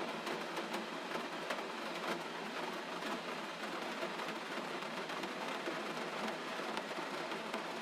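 Steady gentle rain: an even hiss of falling rain with many small drops pattering close by.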